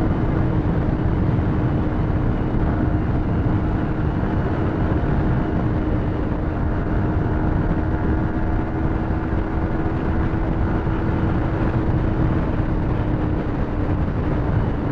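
Yamaha R15's single-cylinder engine held at high, steady revs at full throttle, under heavy wind rush on the microphone; the engine note eases slightly lower near the end.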